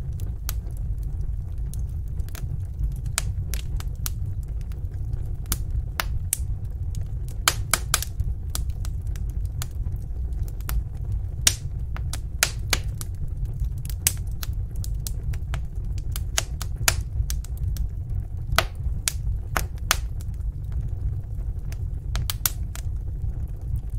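Wood fire crackling in a fireplace: irregular sharp snaps and pops, a few a second, over a steady low rumble of the burning fire.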